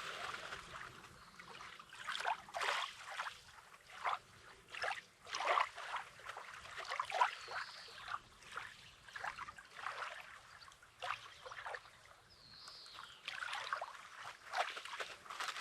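Small waves lapping and trickling over a pebbly shore, an irregular run of short splashy crackles. Two brief high chirps come through, about halfway through and again later.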